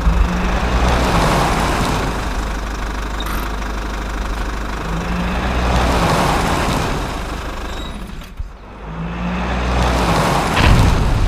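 A motor vehicle engine running, its sound swelling and easing off in a repeating cycle about every four to five seconds, with a brief drop shortly before the end.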